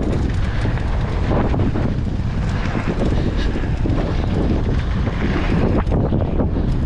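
Heavy wind buffeting the camera microphone, over the rumble and scattered knocks of a mountain bike riding down a dirt trail.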